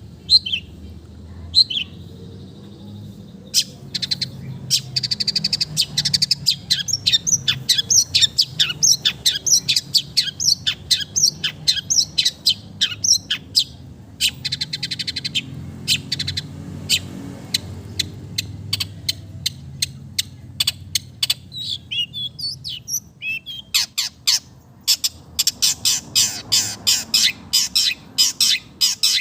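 Long-tailed shrike (cendet) singing in long runs of fast, harsh chattering notes, packed with mimicked calls. A brief steady whistle comes near the start, and the chatter thins for a few seconds about two-thirds of the way in before picking up again.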